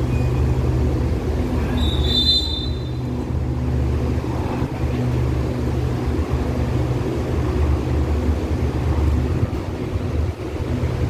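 Steady low drone of trains standing at the station platform, with a brief high-pitched tone about two seconds in.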